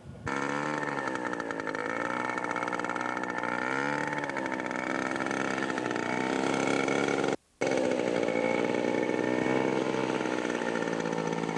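Scale radio-control model airplane engine running, its pitch rising and falling as the throttle is worked, then holding steadier near the end. The sound drops out completely for a moment about seven seconds in.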